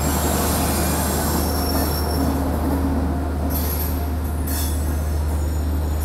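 An electric-locomotive-hauled passenger train rolling past along the platform, with steady rail and wheel noise and thin high squeals from the wheels.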